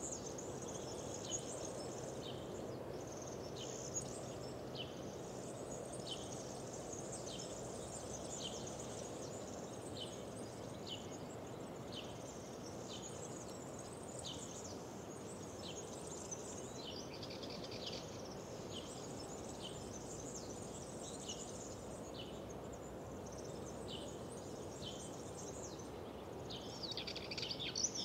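Outdoor spring birdsong: one bird repeats a short, high, falling note about once a second against a chorus of other birds, over a steady low rushing background. A fuller, denser burst of song starts near the end.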